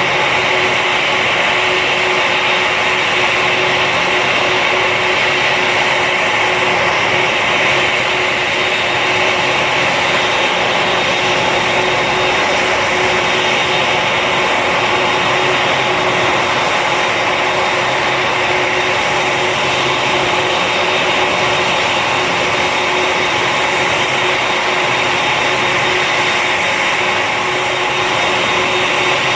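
Steady aircraft noise: a constant, unchanging roar with a steady hum running through it.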